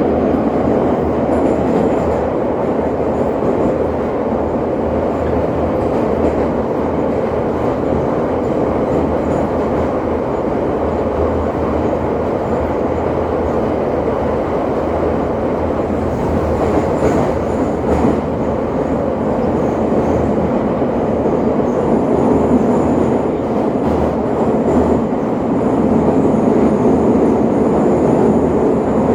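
Electric commuter train running between stations, heard from inside the carriage: a steady, continuous rumble of wheels on rail and running gear, swelling slightly louder near the end.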